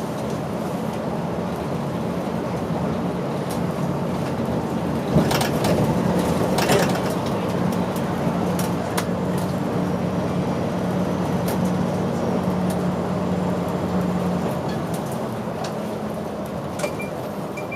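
Route bus engine and drivetrain running under way, heard inside the cabin as a steady low hum, with a cluster of sharp rattles and knocks about five to seven seconds in. A series of short, high beeps begins near the end.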